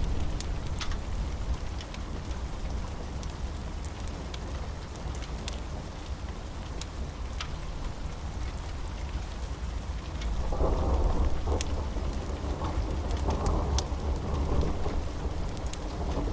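Steady rain with a constant deep rumble underneath and scattered sharp ticks. About ten seconds in, a roll of thunder swells up and rumbles on in waves.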